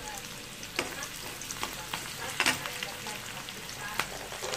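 Chopped red onion sizzling in hot oil in a wok, with a metal ladle stirring and knocking against the pan a few times, the loudest knock about two and a half seconds in.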